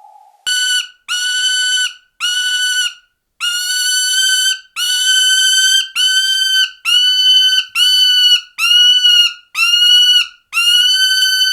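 A bird of prey calling over and over: about eleven calls, each held on one steady pitch for under a second, with the gaps between them shortening after the first few.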